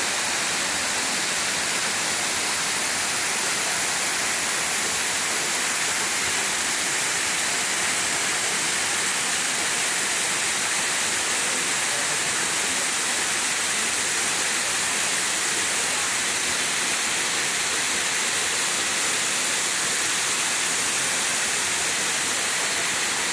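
Steady rushing water, an even hiss with no break or change.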